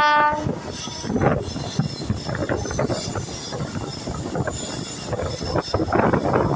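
Express passenger train running, heard from aboard: a steady rumble and rattle of the coach with wind on the microphone. A horn blast cuts off about half a second in.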